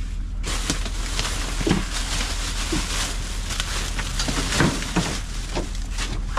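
Rustling, crinkling and light knocks of boxes and bags of belongings being rummaged through, starting about half a second in, over a steady low hum.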